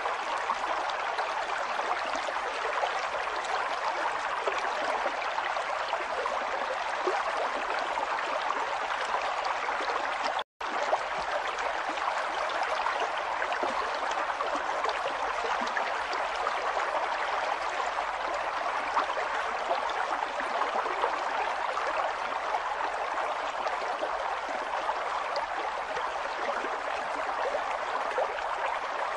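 River water flowing and rushing steadily. The sound cuts out for a split second about ten seconds in, then resumes unchanged.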